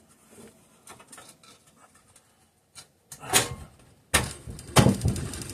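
Metal engine parts being lined up and fitted together by hand: a knock, then a short run of clunks and rattles about a second before the end, after a quiet start.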